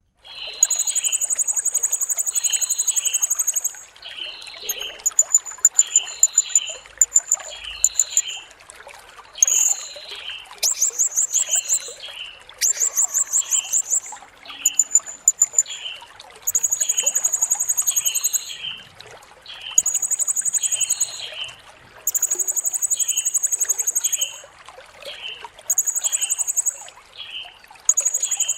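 Blue-crowned hanging parrot (serindit) singing: very high, thin buzzing trills, each one to three seconds long, repeated with short pauses, with some quicker stuttering trills in the middle. Beneath them a lower, shorter chirp repeats about once a second.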